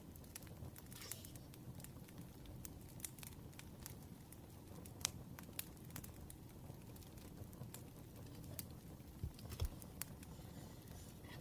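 Wood fire crackling, with irregular sharp pops and ticks over a low steady rumble, a few louder pops about halfway through and near the end.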